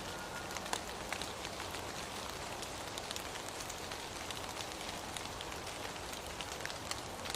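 Steady rain, with many separate drops ticking sharply through the even hiss.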